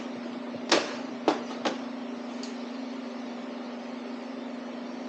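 A steady electrical or fan-like hum, with three sharp clicks or knocks in the first two seconds and a faint one about a second later.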